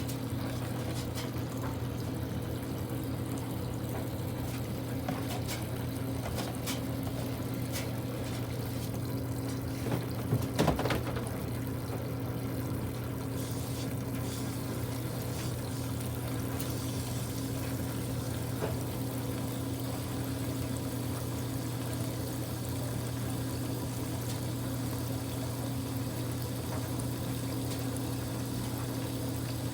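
Water pouring into a Kuppet portable washing machine's tub as it fills, over a steady hum, with a couple of brief knocks about ten seconds in.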